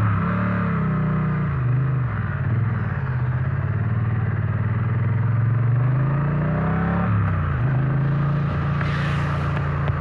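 Triumph Bonneville T100's parallel-twin engine under way, heard raw from the rider's position: the revs rise briefly, ease off, then climb steadily for several seconds before dropping about seven seconds in and settling to a steady note. A short hiss comes about nine seconds in.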